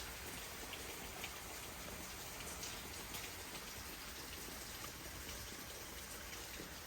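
Steady rain falling, with a few faint scattered ticks.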